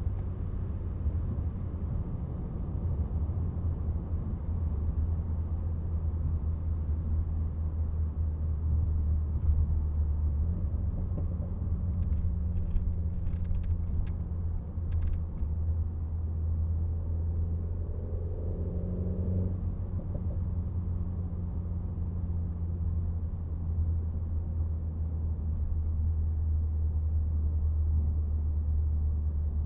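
Renault Megane RS Trophy's turbocharged four-cylinder engine cruising at a steady low drone. A few clicks come about halfway through, and a short higher tone follows a few seconds later.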